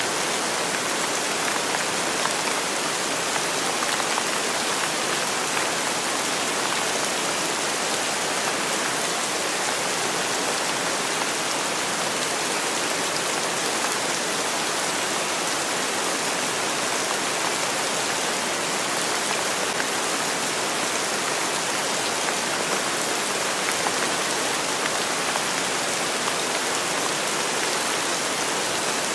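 Steady rain falling, an even, bright hiss of many drops.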